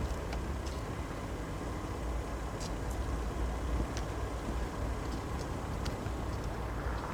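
Diesel freight locomotives running, a steady low rumble with a faint steady hum and a few light clicks.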